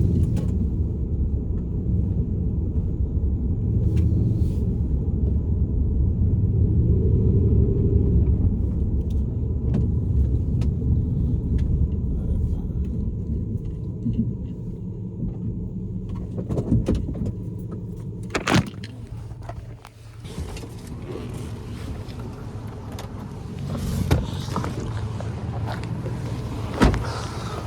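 Ram pickup truck's steady low rumble, heard from the cab, which fades about two-thirds of the way through. A single sharp knock follows, then a noisier outdoor hiss with two more brief knocks near the end.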